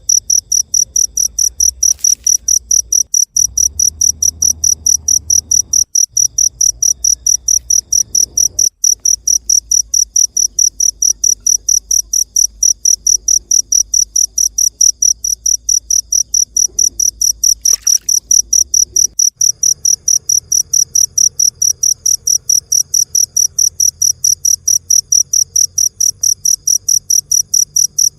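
Cricket chirping steadily, a loud, high, even chirp repeated about three times a second.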